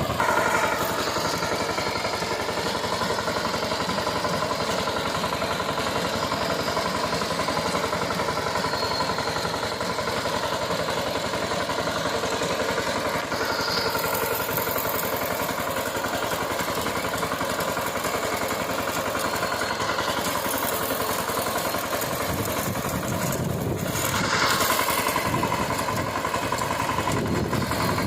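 VST Shakti power tiller's single-cylinder diesel engine running steadily; its note changes about 22 seconds in and it runs louder for a couple of seconds shortly after.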